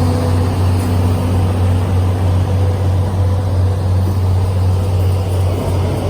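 Train running by with a steady, loud low rumble.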